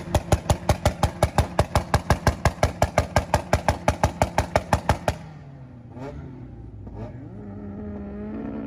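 Car engine held on a two-step launch limiter, banging in a rapid, even rhythm of about six pops a second. About five seconds in it drops back to idle, with two short blips of the throttle and then a steadier rev.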